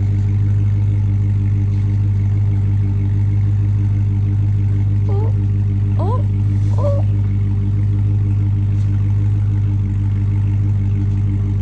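Car engine idling steadily: an even low drone that neither rises nor falls.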